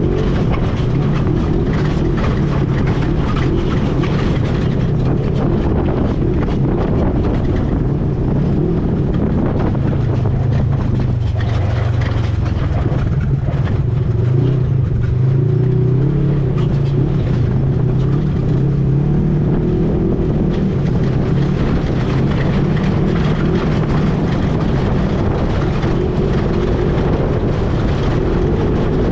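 ATV engine running under way, its pitch rising and falling with the throttle over a constant rough noise.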